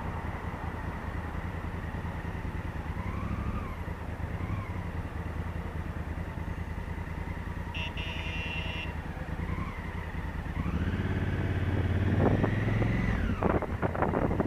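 Honda Africa Twin CRF1000L's parallel-twin engine running while riding, its pitch rising about ten seconds in as it accelerates and falling away near the end. A brief high tone sounds about eight seconds in.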